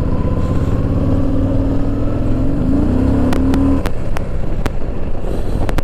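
Yamaha V-Star 950's air-cooled V-twin engine running while riding, heard through a helmet microphone with a steady low hum. About halfway through its pitch rises briefly as it accelerates. After that come several irregular sharp clicks.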